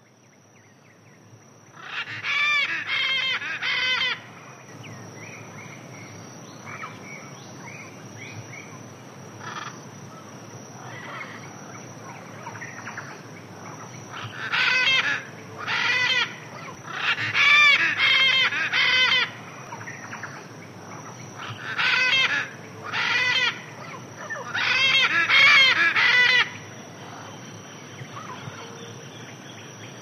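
Loud harsh bird calls in bursts of a second or two, with quieter gaps between, over a steady high-pitched drone.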